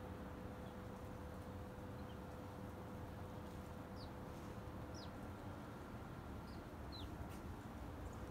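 Several short, faint, high chirps from a small bird, each dropping quickly in pitch, over a steady low rumble of background noise.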